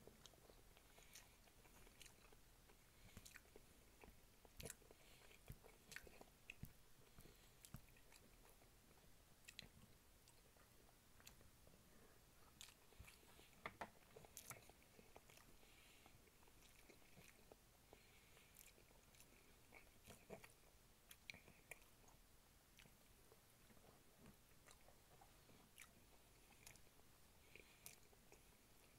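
A person chewing a mouthful of food, faint, with many scattered soft mouth clicks.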